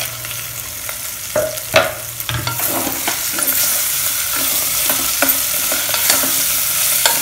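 Chopped potatoes sizzling in hot oil in a pressure cooker as they are stirred with a wooden spatula, which knocks against the pot now and then. The sizzle grows louder about two and a half seconds in.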